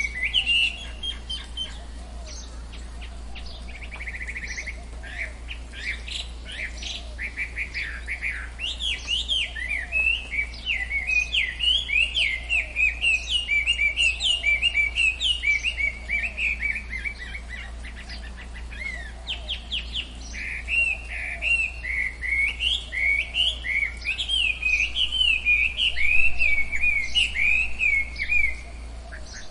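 Birds singing: long, fast runs of short, high sweeping chirps and whistles that go on almost without a break, briefly thinning out twice.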